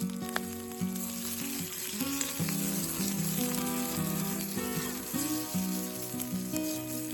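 Food sizzling as it fries in a hot pan, a steady hiss with small crackles throughout.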